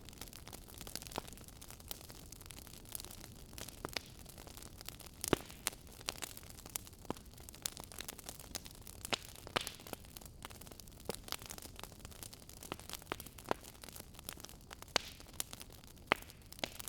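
Wood fire crackling: a soft steady hiss with frequent sharp, irregular pops and snaps, one louder pop about five seconds in.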